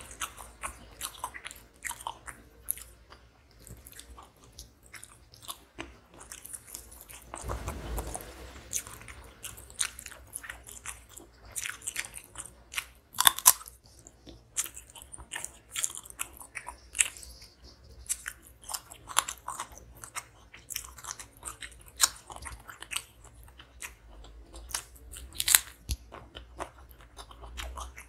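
A person chewing and crunching food close to the microphone, with irregular sharp crunches and bites.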